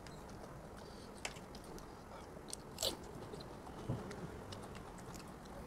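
A person biting and chewing pani puri, the crisp hollow puri shells cracking in a few sharp crunches, the loudest about three seconds in, over a faint steady hum.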